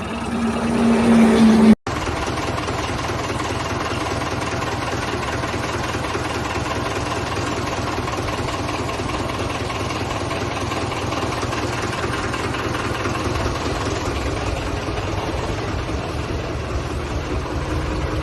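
Restored Ford tractor's diesel engine running. It grows louder over the first two seconds, a sudden cut follows, and then it runs steadily at an even pace.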